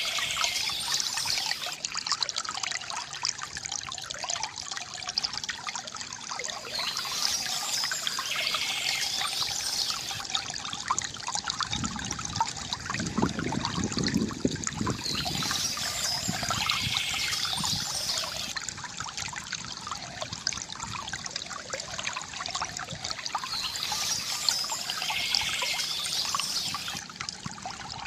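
Water trickling and gurgling from a bamboo fountain, with a deeper gurgling swell about halfway through. Birds chirp in short bursts roughly every eight seconds.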